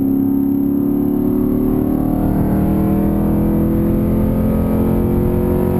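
Straight-piped Chrysler 300C SRT8's 6.1-litre Hemi V8, with mufflers and resonators removed, running under hard acceleration. The exhaust note climbs steadily in pitch and breaks off right at the end.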